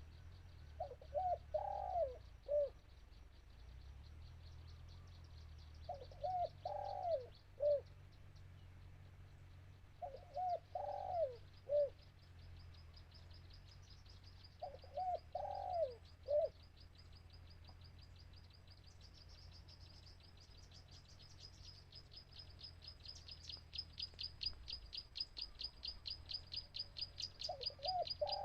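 Spotted dove cooing: five short phrases of a few notes each, repeated every four seconds or so. A rapid, high-pitched pulsing, insect-like, grows louder through the second half.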